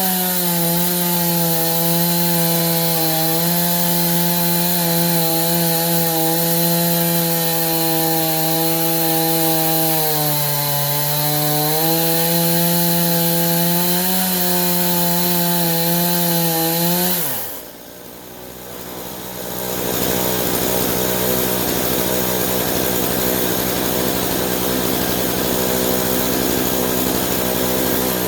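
Stihl chainsaw in an Alaskan mill ripping a pine log at full throttle, its engine note sagging briefly under load about ten seconds in. About seventeen seconds in the engine speed falls away sharply. A couple of seconds later a different steady machine noise takes over.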